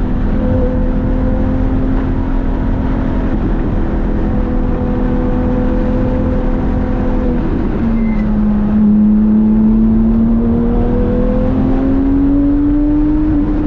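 Porsche 997 GT3's flat-six engine running hard at steady revs, with a sudden drop in pitch about eight seconds in as it shifts up a gear. The revs then climb again steadily under acceleration, over a constant rush of road and wind noise.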